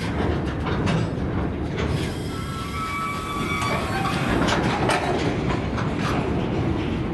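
Freight wagons rolling slowly over the rails as the train brakes to a near stop: a heavy rumble with repeated knocks and clanks from the wheels and bogies, and a high brake squeal that sets in about two seconds in and lasts a couple of seconds.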